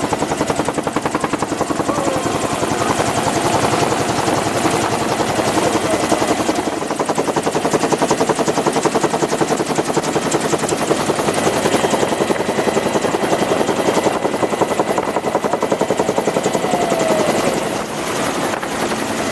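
Bell UH-1 "Huey" helicopter running loudly and steadily, its rotor blades beating in a fast, even rhythm over the engine noise.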